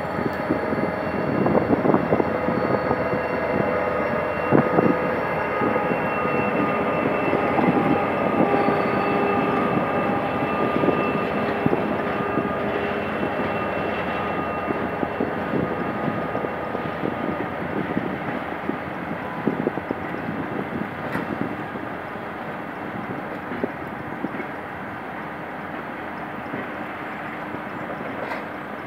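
GM GT22CW-2 diesel-electric locomotive hauling a passenger train past at low speed: the diesel engine running under load, then the coaches' steel wheels clicking and knocking over rail joints and the crossing. The sound trails off toward the end as the last coaches pass.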